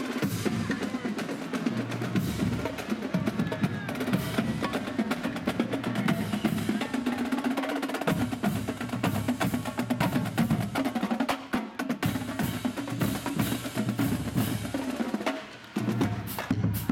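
Marching band drumline playing a street cadence: rapid snare drum strokes and rolls over bass drum beats, with a short break shortly before the end.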